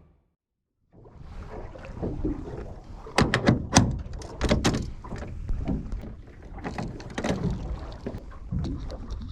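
Small fishing boat on the water: water sloshing against the hull, with a run of sharp knocks and thunks, loudest between about three and five seconds in.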